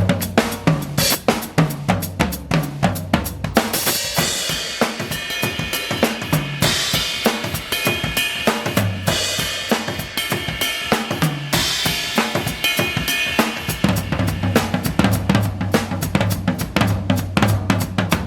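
Drum kit played in a busy funk groove: kick, snare and hi-hat strikes in a tight, steady rhythm, with ringing cymbal washes coming in a few times, around four, six and a half, and eleven and a half seconds in.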